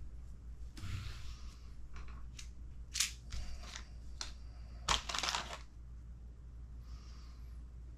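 Small parts being handled by hand: a plastic parts bag rustles and small screws and parts click against each other, with the sharpest clicks about three and five seconds in.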